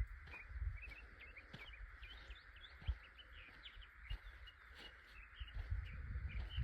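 Small birds chirping in many quick, high calls over a steady hiss, with a few low thumps.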